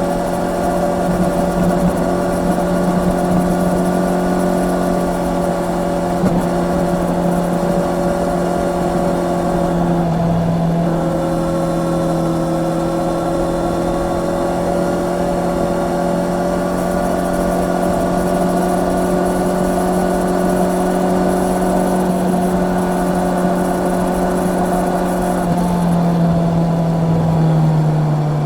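Honda CB650R's inline-four engine running steadily at cruising revs under way, with wind rush over it. About ten seconds in the note breaks briefly and picks up again, as at a gear change, and near the end the engine note drops as the bike slows.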